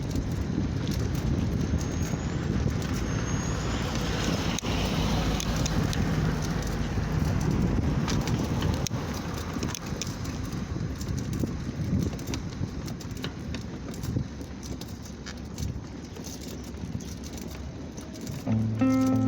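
Wind rushing over the microphone with rolling road noise from a moving bicycle. Music comes in near the end.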